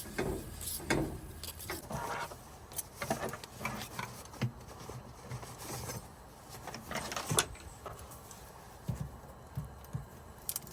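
Irregular clicks and knocks of cooking gear and food containers being handled.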